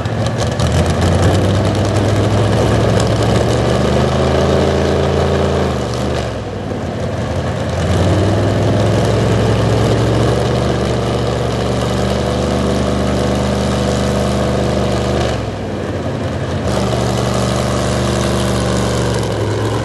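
Pulling truck's 700-cubic-inch engine running hard under load as it drags the pulling sled. Its pitch dips and recovers twice, about six and fifteen seconds in.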